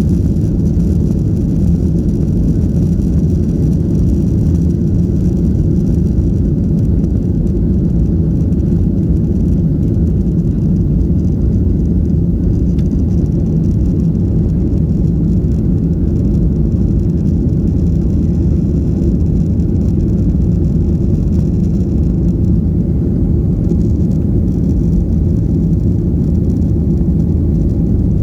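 Steady low rumble of a Boeing 737's jet engines and airflow heard inside the passenger cabin, unchanging in level throughout.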